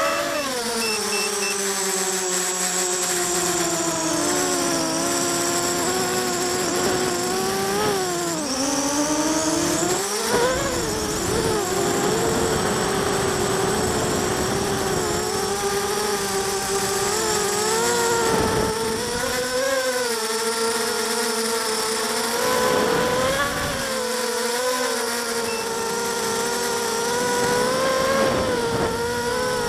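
Mini quadcopter's DYS BE1806 brushless motors and 5040 propellers buzzing, the pitch rising and falling as the throttle changes in flight. Gusts of wind rumble on the microphone now and then.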